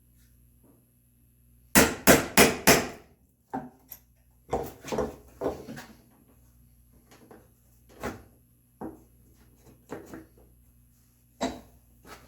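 Mallet striking a chisel chopping a mortise in red oak. A quick run of four sharp blows comes about two seconds in, followed by scattered lighter taps and knocks.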